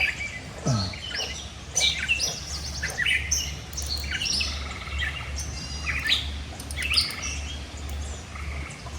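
Several small birds chirping and trilling in quick, overlapping short calls, over a steady low hum.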